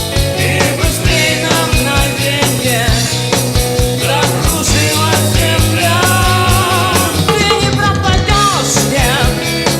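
A song performed live: a singing voice with vibrato over a band or backing track with a steady drum beat and bass.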